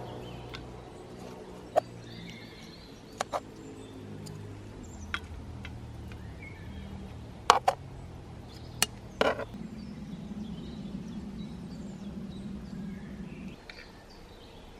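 Scattered sharp knocks and clicks, about eight of them, a quick pair about halfway through being the loudest, over a low steady hum, with small birds chirping faintly.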